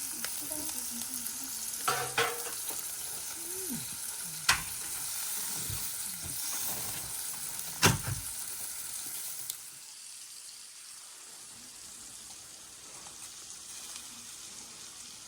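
Meat sizzling on a grill over a wood fire, a steady hiss with a couple of sharp pops. The sizzle drops noticeably quieter about two-thirds of the way through.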